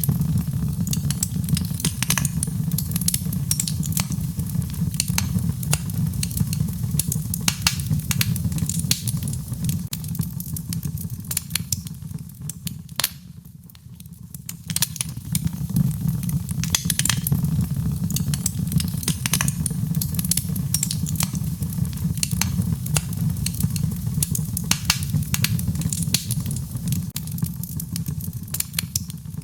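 Wood fire in a fireplace crackling, with frequent sharp pops and snaps over a steady low rumble. The sound dips briefly about halfway, then comes back.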